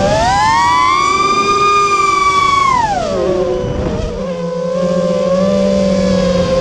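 Brushless motors and propellers of a GEPRC Stretch X FPV quadcopter whining as the throttle changes: the pitch rises about half a second in, holds, falls about three seconds in, then settles into a lower steady whine.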